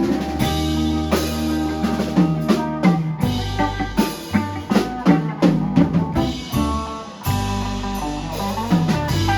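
Live band of two guitars, bass guitar and drum kit playing an instrumental passage with no singing: a steady bass line under guitar notes and drum hits.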